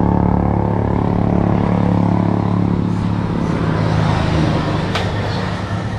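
A vehicle engine running at a steady pitch, easing off after about four seconds.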